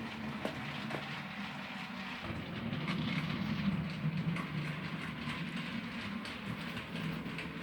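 Model trains running round a layout: a steady electric motor hum with the wheels ticking over the rail joints, swelling a little as a train passes close about three seconds in.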